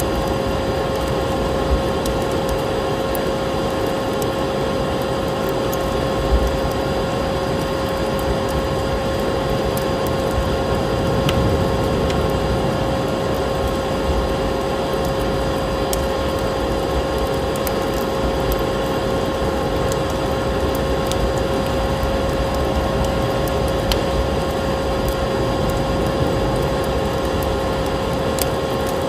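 Steady vacuum cleaner motor hum with a constant pitched whine, layered over crackling fireplace fire, whose scattered sharp pops sound through it, and a steady rush of storm wind.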